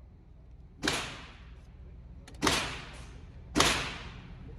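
Three pistol shots from a 9mm Glock 19, about a second and a half apart, each a sharp crack with a short echoing tail.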